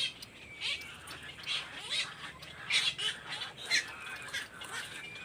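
Birds calling: a run of sharp, high chirps at irregular intervals, about one or two a second, over a thin, steady high-pitched call.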